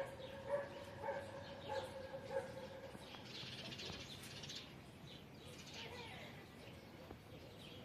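Birds chirping repeatedly in short high notes, with a longer pitched cry with overtones over the first two and a half seconds and a dense high fluttering rush a little after three seconds in.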